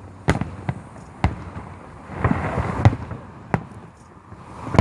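Fireworks display: aerial shells bursting with sharp bangs about every half second to a second, over a swell of crackling near the middle, and a loud bang at the very end.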